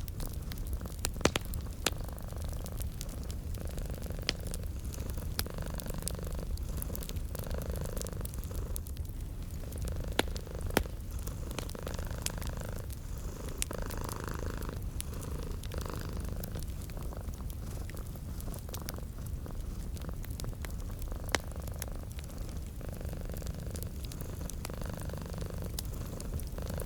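A domestic cat purring in a steady, rhythmic rumble, layered with the crackle of a wood fire: scattered sharp pops, a few louder ones around two, four, ten and twenty-one seconds in.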